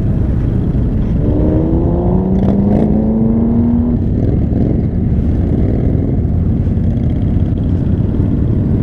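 Motorcycle engines riding in a group, over steady wind rush on the camera microphone. About a second in, one engine's pitch rises for about three seconds as it accelerates.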